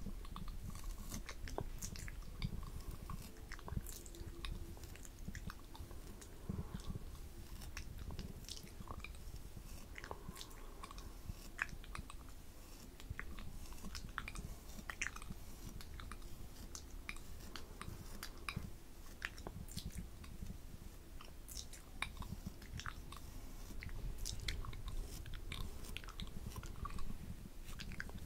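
Close-miked ASMR mouth sounds: a continuous run of quick, irregular clicks.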